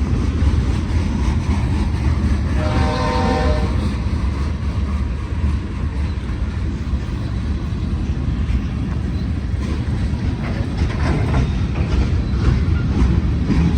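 Union Pacific freight train rolling past with a steady low rumble. About two and a half seconds in, the locomotive's horn sounds once for about a second.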